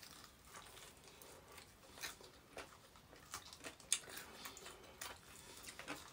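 Faint chewing and biting of chicken wings, with scattered small wet clicks and smacks from the eaters' mouths.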